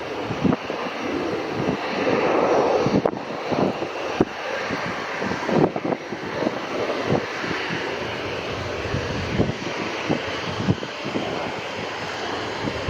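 Boeing 737 MAX 8's CFM LEAP-1B turbofan engines running, a steady jet noise with no clear rise or fall, with gusts of wind buffeting the microphone.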